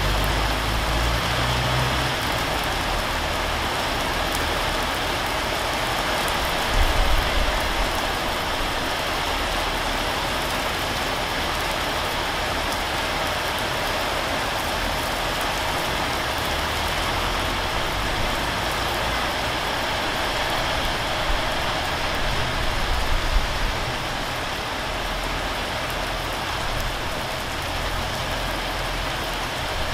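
Steady heavy rain pouring down onto corrugated roof sheeting and leaves. A few brief low rumbles come through it, the strongest about seven seconds in and again a little after twenty seconds.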